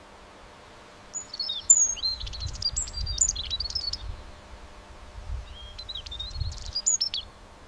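Birds chirping: two bursts of quick, high twittering notes and short slurs, the first starting about a second in and lasting about three seconds, the second near the end.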